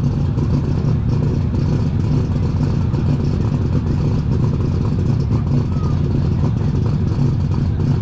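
Superstock pulling tractor's diesel engine running loud and steady, with no revving.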